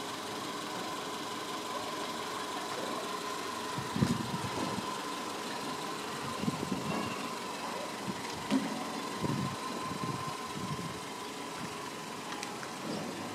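Chevrolet Spark hatchback's engine idling steadily, with a few irregular low thumps.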